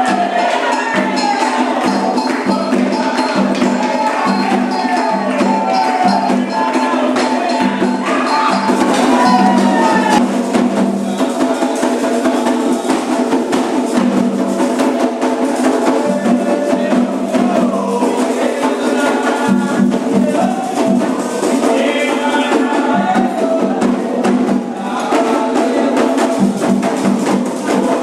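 Candomblé ritual music: drums and struck percussion keeping a steady repeating beat under chanted singing.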